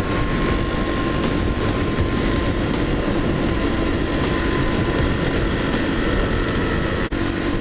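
Small-bore Honda dual-sport motorcycle being ridden at road speed, its single-cylinder engine running steadily under a heavy rush of wind and road noise. A faint ticking about three times a second runs through it, and the sound dips briefly near the end.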